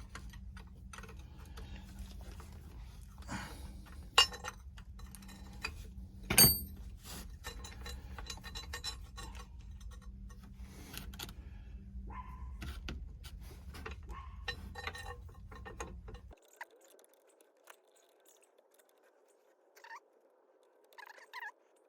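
Steel hand wrenches clinking and scraping on the nuts and linkage of a truck's parking brake, with two sharper metal knocks about four and six seconds in. A low background hum under the clinking stops abruptly about three-quarters of the way through, leaving only a few faint taps.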